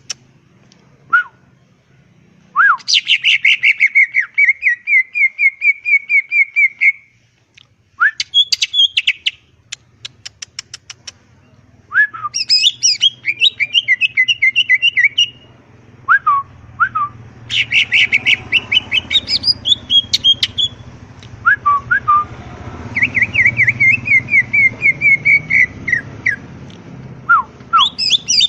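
A cucak ijo (green leafbird) singing hard, in phrases of fast, rapidly repeated whistled notes that each last a few seconds, with brief pauses and short rising notes between them.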